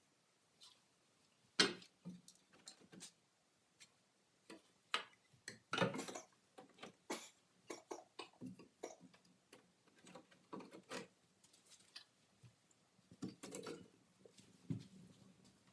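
Wood fire crackling in a fireplace: irregular sharp pops and snaps of uneven strength.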